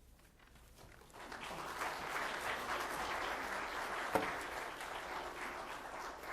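Congregation applauding after a choir's song, building about a second in and tapering off near the end.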